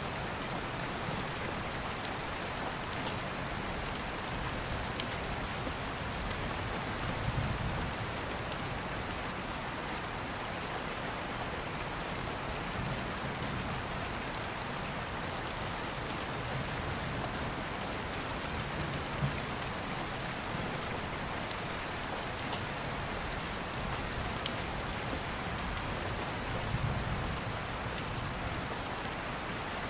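Steady rain falling, with a faint low rumble of distant thunder twice and scattered small clicks and pops.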